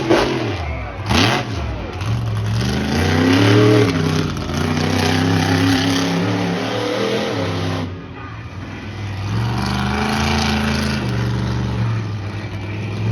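Big truck engine revving hard, the pitch rising and falling over and over as the driver works the throttle, with a brief drop-off about two-thirds of the way through before it climbs again.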